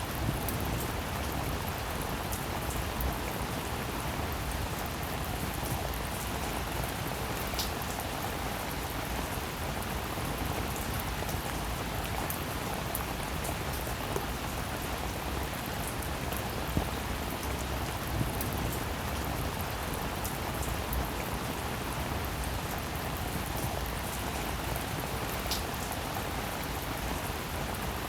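Steady, even rainfall: a dense hiss of drops, with scattered sharper individual drop hits standing out now and then.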